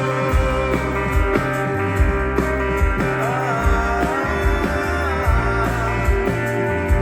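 Live rock band music: a steady drum beat and bass under guitar, with a lead melody that bends up and down in pitch about halfway through.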